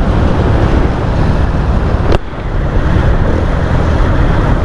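Motorcycle with an aftermarket full-system exhaust running under way, a steady loud engine-and-exhaust noise mixed with wind on the microphone. A single sharp click comes about two seconds in.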